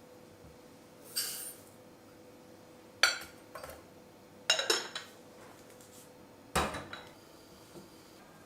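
Dishes and cutlery clinking and clattering as they are handled and set down: four separate clatters with a bright ringing tail, a second or two apart.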